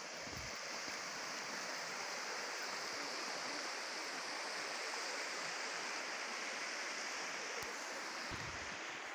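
Steady rush of fast-flowing river water, the Prut running beneath the Vorokhta viaduct.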